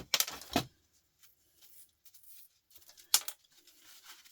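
Sharp clicks and knocks of small salvaged parts being handled and pulled apart on a workbench: a quick cluster at the start, quiet handling noise, then another loud click about three seconds in.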